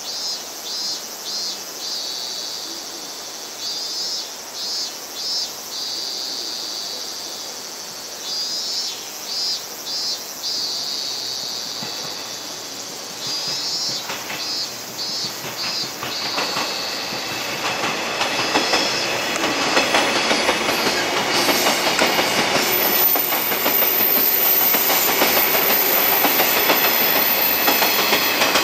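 Insects chirp in repeated groups of short high pulses while a 485-series electric train rolls slowly in the distance. From about 16 seconds the train's wheels on the rails grow louder as it passes close by, with a thin high wheel squeal over the last several seconds.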